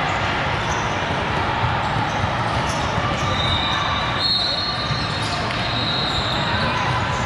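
Volleyballs being struck and bouncing in a large busy hall, over a steady din of crowd chatter. A high steady tone joins about three seconds in and holds on and off to the end.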